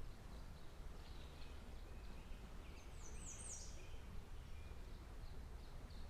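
Faint birdsong: scattered high chirps, with a quick run of three or four falling chirps about three seconds in, over a steady low outdoor background noise.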